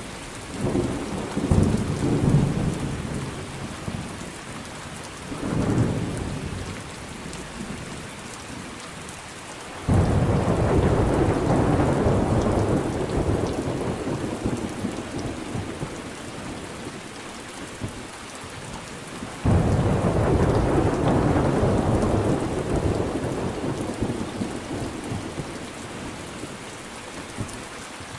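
Thunderstorm with steady rain falling. Low rolls of thunder come in the first few seconds, then a sharp thunderclap breaks about ten seconds in and another about nine seconds later, each rumbling slowly away under the rain.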